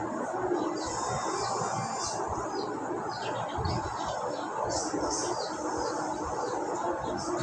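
Pet parrots chirping, with many short high chirps in quick, irregular succession over steady background noise.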